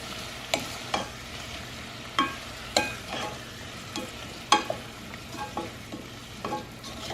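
Diced potatoes and seasonings sizzling in a pot while being stirred, the utensil knocking against the pot every half second to a second.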